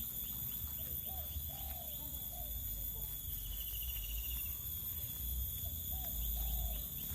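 A bird calling in two short runs of arched notes, one about a second in and one near the end, over a steady low rumble and a constant high-pitched insect-like drone.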